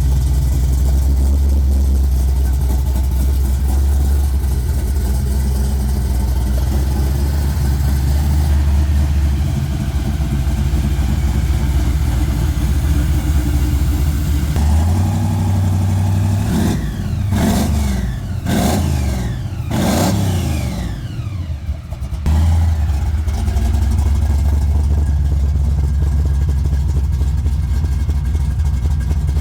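Supercharged 400ci small-block Chevy V8 in a 1967 Chevy Nova idling steadily, then revved in several quick throttle blips about halfway through before settling back to idle.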